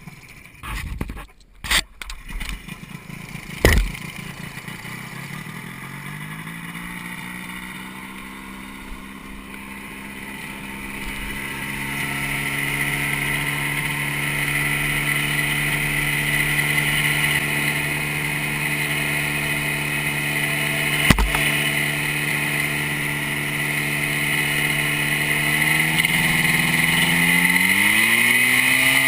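Quicksilver MX Sport ultralight's two-stroke engine being started: a few sharp knocks, then it catches about four seconds in, picks up speed and settles into a steady run, and revs higher near the end.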